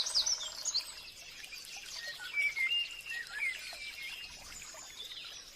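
Forest birdsong: several birds sing rapid, high chirps in the first second, then slower, lower whistled notes, with a faint steady background hiss.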